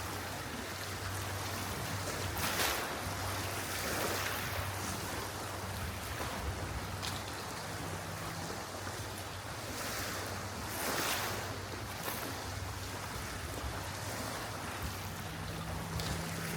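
Sea waves washing into a small cove with wind, the wash swelling a few times, over a faint low hum.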